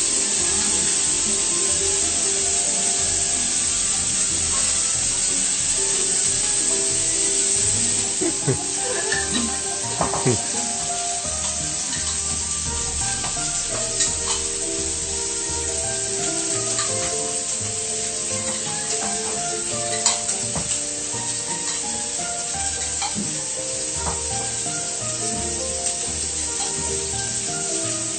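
Food sizzling as it fries in a hot pan, a steady hiss, with a few sharp clicks scattered through. Music plays in the background.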